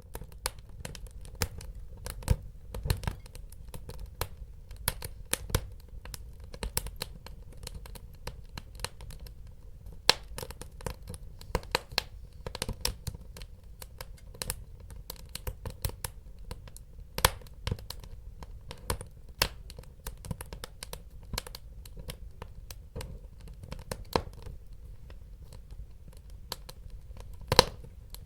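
Wood fire crackling in a fireplace: irregular sharp pops and snaps, a few of them louder, over a low steady rumble of the burning logs. The crackling starts abruptly out of near silence at the start.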